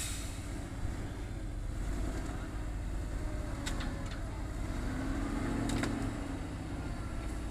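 ZIL-131 military truck's engine running with a steady low rumble that swells briefly near the end, with a few sharp knocks.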